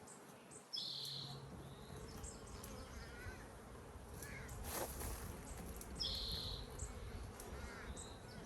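Honeybees buzzing around an opened hive, a steady low hum, with two short high chirps about a second in and about six seconds in.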